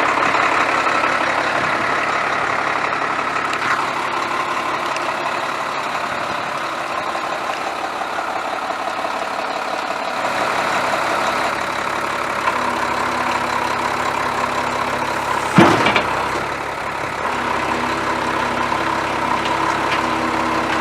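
Diesel engine of a 2003 Nissan UD 2000 ramp truck idling steadily, its tone shifting slightly about halfway through. A short, sharp burst of noise cuts in about three-quarters of the way in.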